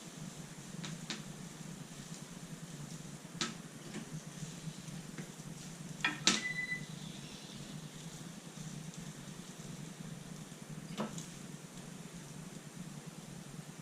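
Scattered clicks and clinks of kitchen utensils and dishes over a steady low hum, the sharpest clink about six seconds in with a brief ringing tone.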